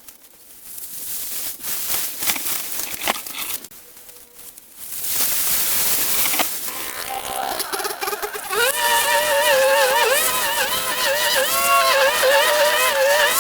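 Scattered clicks and knocks, then a hiss. From about eight and a half seconds in, the small engine of a two-stroke cutting tool runs at high revs with its pitch wavering up and down.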